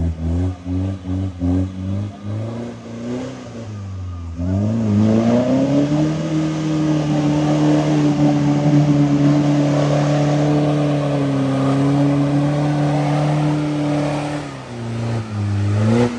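Off-road 4x4 engine revved in short throttle blips, then run up and held at high revs for about ten seconds under load before easing off near the end.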